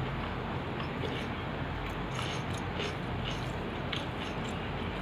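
Close-up eating sounds: chewing a mouthful of rice and moong dal, with irregular small wet mouth clicks and smacks, over a steady background hiss.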